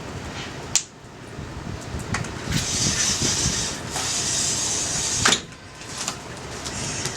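Wood campfire of branches and scrap wood crackling, with scattered sharp pops, one loud pop just under a second in. A hissing rush rises about two and a half seconds in and cuts off after a few seconds.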